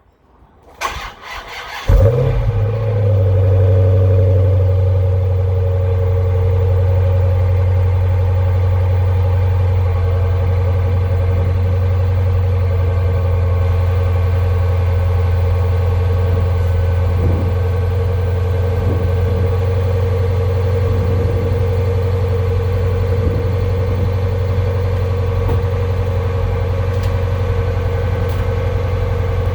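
2014 Dodge Challenger engine cranked over by the starter for about a second, catching about two seconds in with a brief flare of revs, then settling into a steady cold-start idle.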